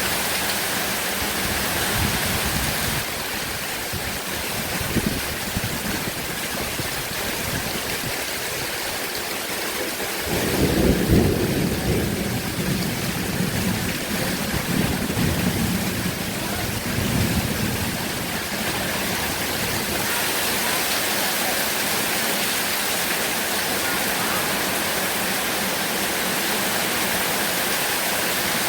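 Heavy rain falling steadily. About ten seconds in, a roll of thunder rumbles for several seconds, loudest at its start, then dies back into the rain.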